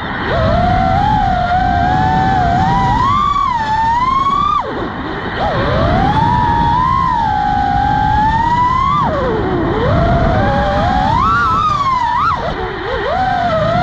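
Motors and propellers of a 6-inch quadcopter drone whining, the pitch sliding up and down with the throttle and falling sharply twice, about four and a half and nine and a half seconds in. Wind rumbles on the microphone underneath.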